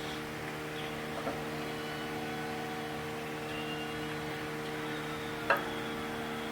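A steady low hum, with a faint click about a second in and a sharper knock near the end.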